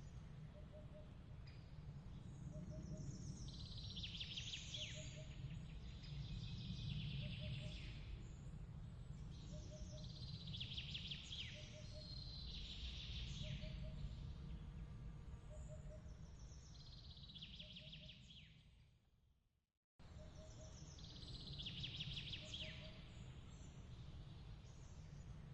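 Layered night ambience of chirping birds and insects over a low, steady rumble: a soft short chirp repeats a little more than once a second, and high trilling chirps come every few seconds. The sound fades out about three-quarters of the way in, then cuts back in abruptly at the loop point of the ambience track.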